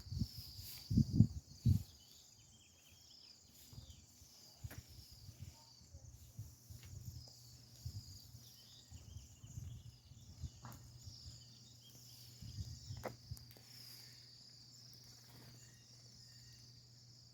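Insects, crickets or similar, keeping up a steady high-pitched chirring chorus with a fine pulsing rhythm. A few low thumps come in the first two seconds, handling or footsteps near the microphone.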